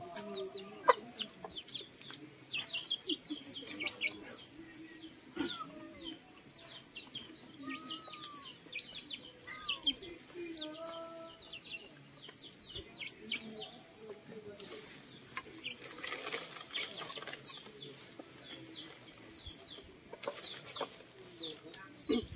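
Birds calling: a fast run of short, high, falling chirps throughout, with scattered lower calls in the first half and a brief burst of noise about two-thirds of the way through.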